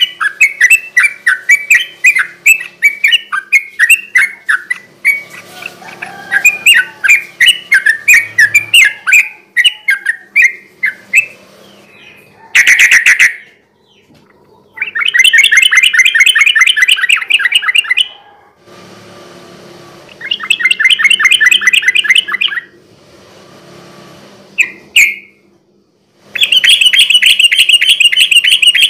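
Yellow-vented bulbul (trucukan) singing. For about the first eleven seconds it gives a quick run of separate chattering notes, then loud fast trilling bursts, each a second to three seconds long, with short gaps between.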